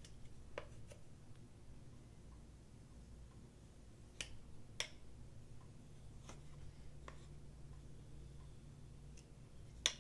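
A few scattered light, sharp clicks and taps of small objects being handled, about seven in all, the loudest just before the end, over a faint steady low hum.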